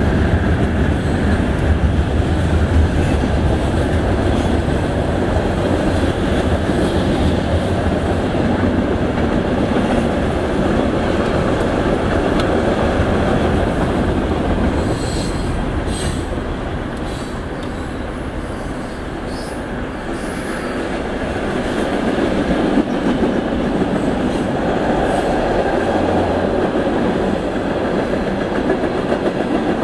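Freight train cars rolling steadily past, a continuous rumble of wheels on rail that dips a little past the middle and then builds again.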